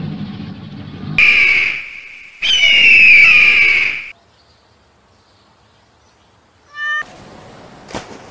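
A hawk screaming twice: a loud, harsh high call about a second in, then a longer scream that falls in pitch, from about 2.5 s to 4 s. A low rumble runs before the first call.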